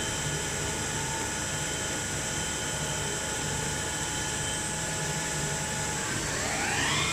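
Mazak FH-12800 horizontal machining center's spindle running with a steady hum and several high whining tones. Near the end the whine rises in pitch and levels off higher as the spindle speeds up toward a commanded 5000 rpm.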